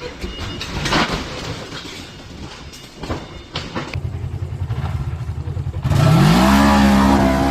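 Vehicle engine noise with a couple of sharp knocks, then a low, even engine pulse. About six seconds in, a louder engine cuts in, its pitch rising as it revs and then holding steady.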